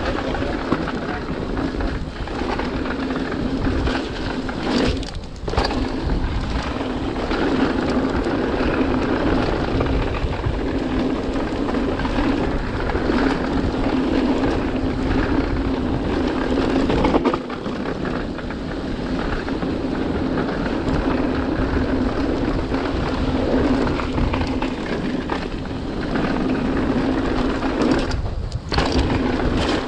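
Mountain bike riding down a trail: a steady rush of wind on the microphone and tyre noise over the ground. The noise drops out briefly twice, about five seconds in and near the end.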